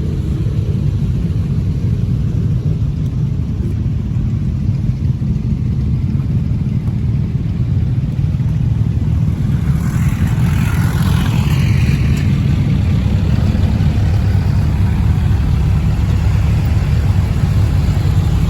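Motorcycle engines running with a steady low rumble. About ten seconds in, a louder, higher engine sound rises for about two seconds, like a bike revving or riding past.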